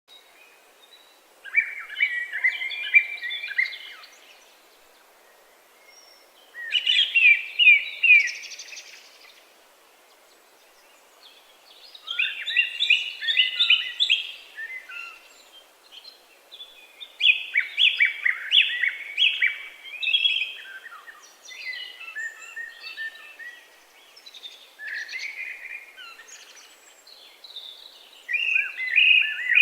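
A songbird singing, repeating short phrases of rapid high notes every few seconds with pauses between them.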